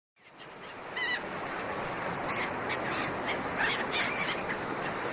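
Seaside ambience fading in: a steady wash of surf with gulls crying several times over it.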